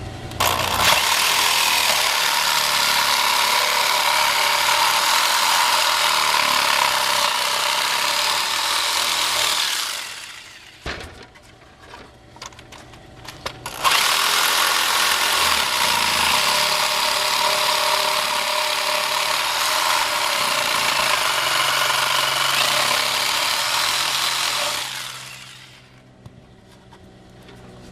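Electric jigsaw cutting out a hole in a wooden board along drilled pilot holes. It runs in two long cuts, each about ten seconds, winding down between them, with a few light clicks in the pause.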